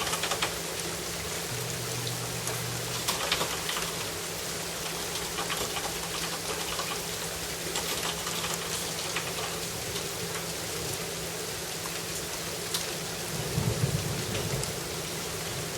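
Steady rain falling, with many individual drops ticking and pattering on surfaces. There is a short low rumble about three-quarters of the way through.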